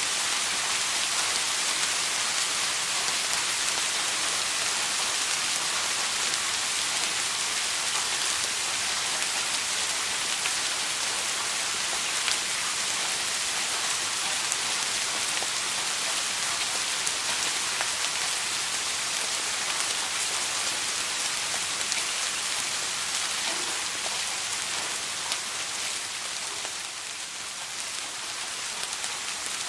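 Steady rain falling: an even hiss with faint scattered drop taps, easing a little near the end.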